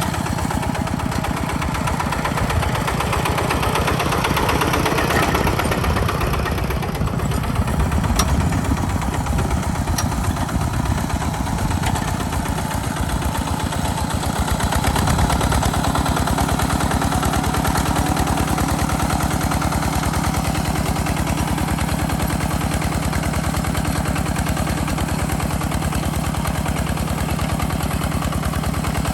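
Tractor engine running steadily while plowing. About halfway through, its note settles into a more even, steady low pitch.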